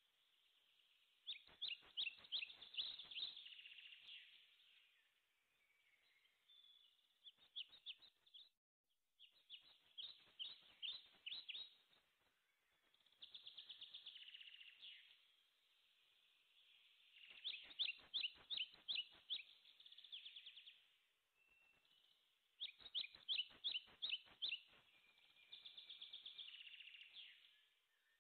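Faint birdsong: phrases of rapid trilled chirps, each lasting a second or two and repeating every few seconds.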